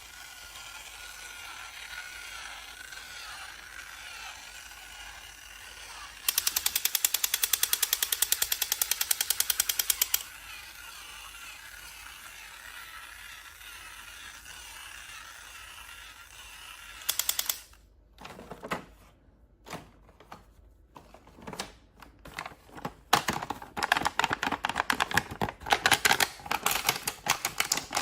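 Rapid mechanical clicking in bursts: a fast run of clicks about six seconds in lasting some four seconds, scattered single clicks later, then dense clicking again over the last few seconds.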